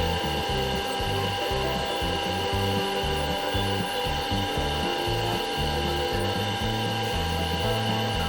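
Wood lathe running with a steady motor whine while a spindle gouge hollows out the end-grain tawa blank, the cut adding an uneven low rumble.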